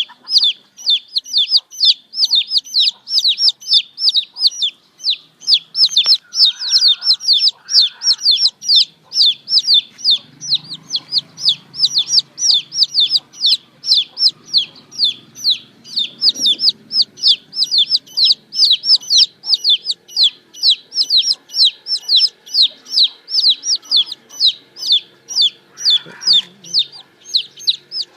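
Domestic chicks peeping continuously, a rapid run of short, high, downward-sliding peeps at about three a second.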